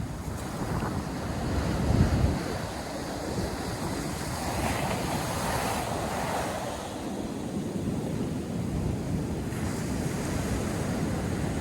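North Sea surf breaking and washing up a sandy beach, with wind buffeting the microphone, a strong gust about two seconds in and a wave rushing in a little later.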